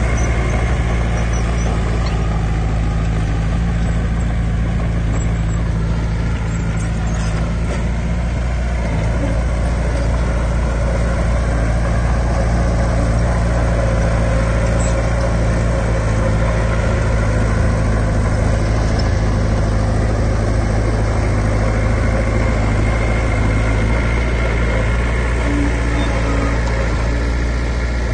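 Heavy diesel engine of earthmoving equipment running steadily, close by, with a deep even hum and no change in pace.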